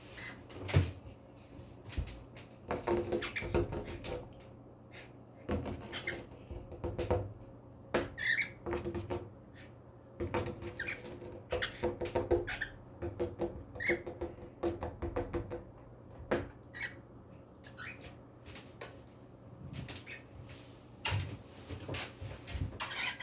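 Female cockatiel making short soft chirps amid repeated clicking, tapping and rattling, in quick clusters every few seconds.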